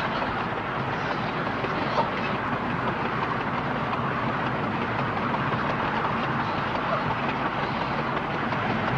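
Steady running noise of a moving passenger train, an even rush and rumble of wheels on the track, heard on an old film soundtrack.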